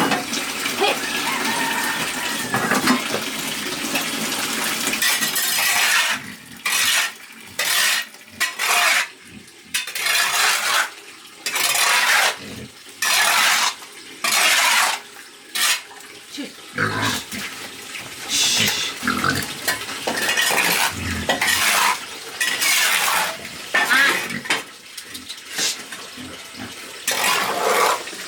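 Food preparation with utensils and dishes: a steady rush like running water for the first five seconds or so, then regular strokes about once a second, with clinks of cutlery and dishes.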